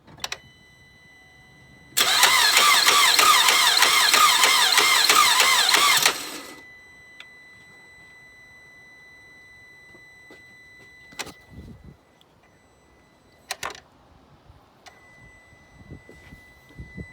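2009 Chevy Traverse's 3.6-litre V6 cranked by the starter for about four seconds, with a rhythmic knock, and it does not catch. A steady high-pitched electronic whine continues with the key on, with a few sharp clicks. The knocking on cranking is the sign of an engine that proved to be ruined.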